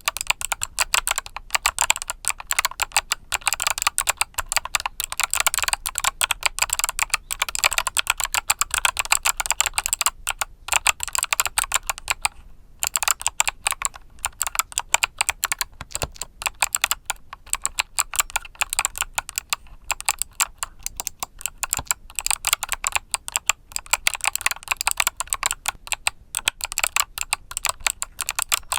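Mechanical keyboard with Kailh Box Summer switches being typed on quickly and steadily, a dense run of crisp key clicks with a brief pause about twelve seconds in.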